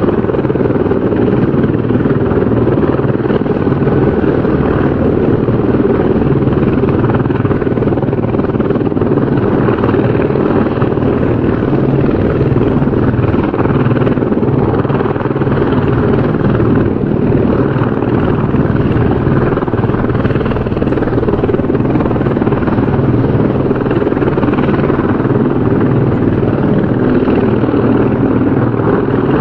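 Helicopter rotor and engine sound, a steady loud rumble with a constant low drone that does not change.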